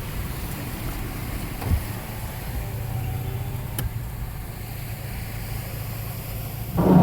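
Steady low rumble of an SUV driving through deep flood water, heard from inside the cab. A louder, short rushing surge comes near the end.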